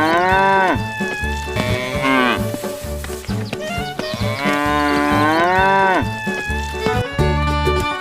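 A cow's moo, played twice in exactly the same shape over a music track with a steady bass beat. Near the end the track moves into faster, busier music.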